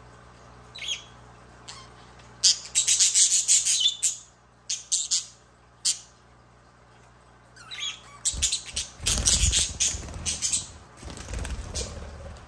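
Budgerigar chirping and chattering in quick bursts with short pauses between them; from about two-thirds in, the chatter sits over a low rumble.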